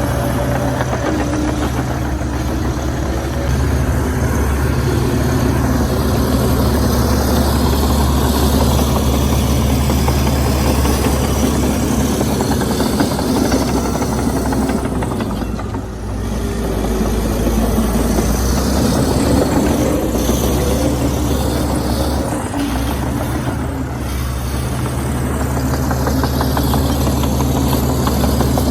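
Komatsu D61EX bulldozer's diesel engine running steadily, easing off briefly about halfway through.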